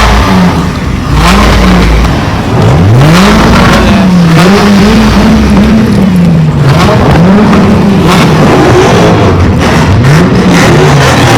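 A car engine being revved hard again and again, its note climbing and dropping about every second or two.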